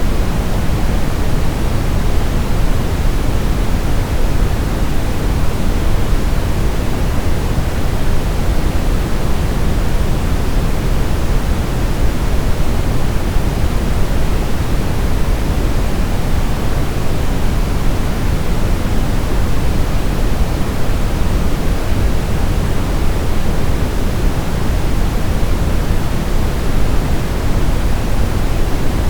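Steady, loud brown noise: an even rushing hiss weighted toward the deep bass, with no changes or events.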